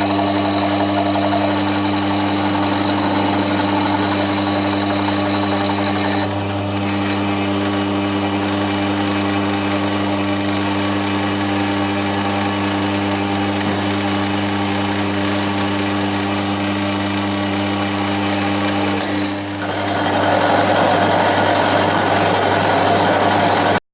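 Milling machine running and cutting the edge of a cast iron bandsaw table, a steady motor hum under a rattling cut. The sound dips briefly twice, about six seconds in and again near the end, and after the second dip the cut grows louder and rougher.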